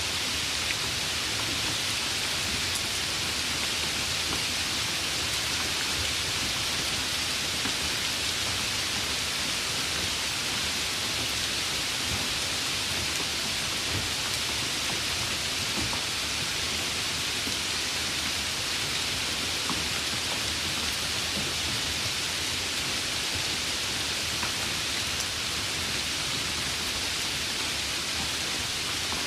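Steady rain falling, a dense, even hiss with a few faint drop ticks scattered through it.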